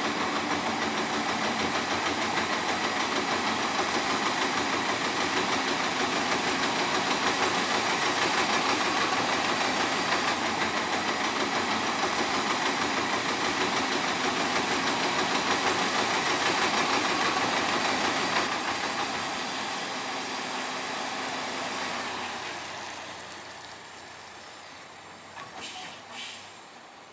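UD Quester CDE 280 truck running with a loud, steady hiss over its engine, the strange sound this truck makes. The hiss fades away after about twenty seconds, and a few short sharp sounds follow near the end.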